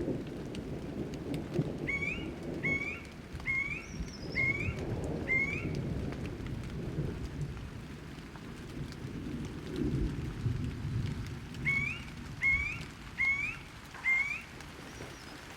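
Steady rain with low rolling thunder, and a bird calling a run of short rising notes: five about two seconds in and four more near the end.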